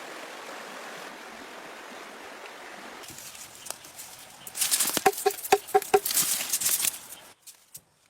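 Chicken clucking: a quick run of short clucks about five seconds in, amid a noisy scuffle, after a steady hiss.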